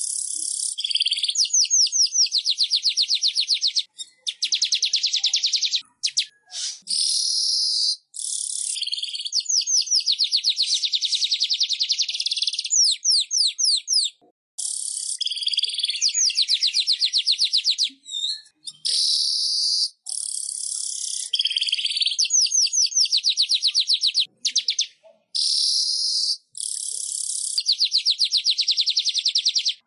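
Manyar (weaver bird) singing: long phrases of rapid, high-pitched chattering trills made of quickly repeated notes, broken by short pauses every few seconds.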